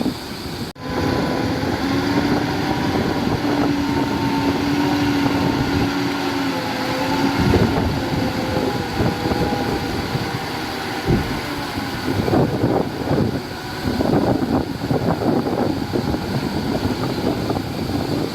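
Diesel engines of heavy earthmoving machinery running under load: a steady engine whine for the first several seconds, then rougher rumbling with irregular knocks from about twelve seconds in.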